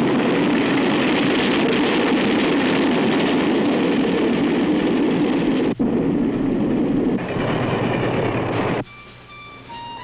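Train running at speed: a loud, steady rush of wheels on rails, with a momentary drop about six seconds in. It cuts off abruptly near the end, and soft violin music begins.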